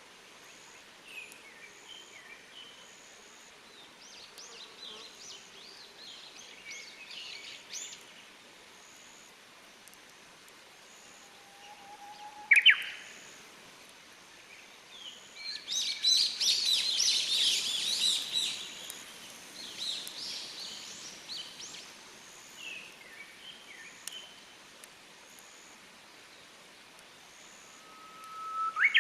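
Forest birdsong: a Japanese bush warbler gives its call, a held whistle that rises sharply into a short high flourish, about twelve seconds in and again at the end. In between, a busy burst of chirping from other birds is the loudest part.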